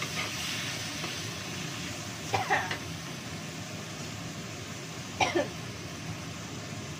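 Mustard greens and red chilies frying in a wok, a steady sizzling hiss. Two brief, louder sounds break in, about two and a half and about five seconds in.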